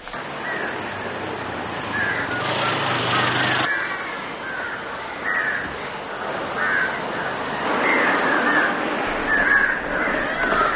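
Repeated short bird calls over a steady outdoor hiss, with a stretch of louder noise lasting about a second, starting about two and a half seconds in.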